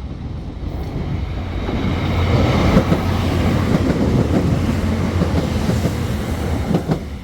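A train passing at close range with wheels clattering on the rails. It builds about two seconds in, stays loud for several seconds, then fades near the end with a few sharp wheel clicks.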